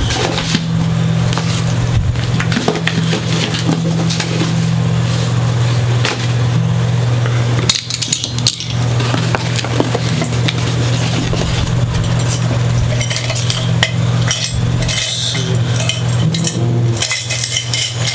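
Small metal parts and tools clinking and rattling as they are handled and rummaged through, over a steady low hum.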